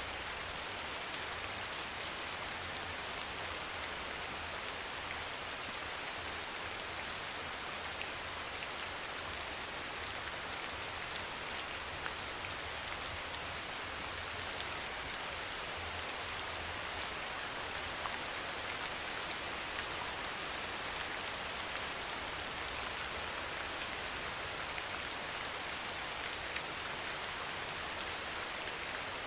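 Steady soft rain: an even hiss with faint, sharp drop ticks scattered through it.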